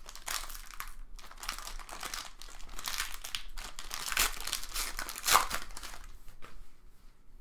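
Crinkling and crumpling of a foil trading-card pack wrapper being opened and handled, in uneven rustling bursts that die down near the end.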